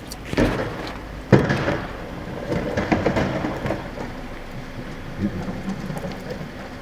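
Garbage truck working a collection stop: its engine runs steadily under a series of thumps and clattering, as of trash and cans being dumped and banging. The loudest bang comes about a second and a half in, with a run of rattling a second or so later.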